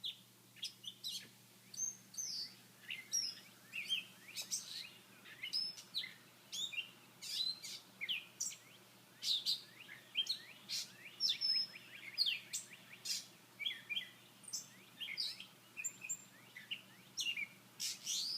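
A dawn chorus of several wild songbirds chirping and singing continuously, with quick, overlapping high notes that sweep up and down.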